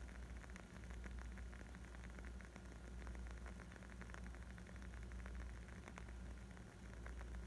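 Wood fire crackling: a dense, irregular run of small pops and snaps over a low, steady rumble.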